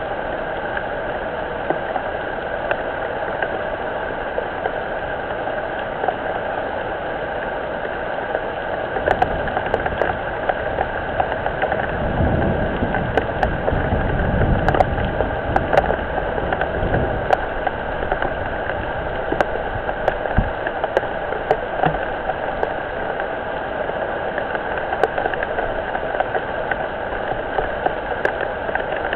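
Rain falling on a garden pond, a steady hiss through a low-quality webcam microphone, with scattered sharp drip clicks. A low rumble swells and fades in the middle.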